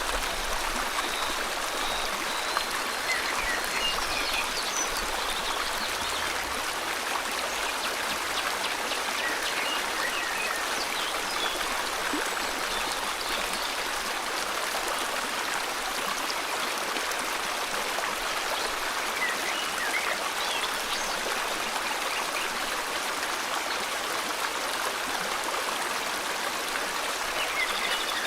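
River water flowing steadily, with faint, scattered bird chirps and short whistles over it now and then.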